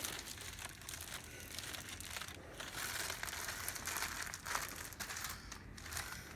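Gift wrapping crinkling and rustling irregularly as a present is unwrapped.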